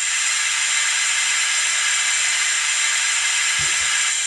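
Steam locomotive safety valve blowing off, a steady high-pitched hiss. It is a recorded sound effect played through the loudspeaker of an ESU LokSound v5 sound decoder in a Hornby Coronation Class model locomotive. The hiss starts at once and eases off right at the end.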